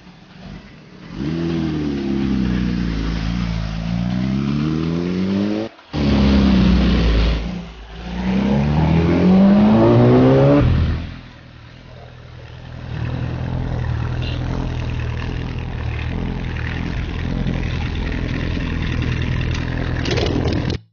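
Superbike engines with loud aftermarket exhausts revving and accelerating hard, their pitch climbing in repeated sweeps, with a brief cut-out about six seconds in. Over the last half the engines run more steadily at a lower pitch.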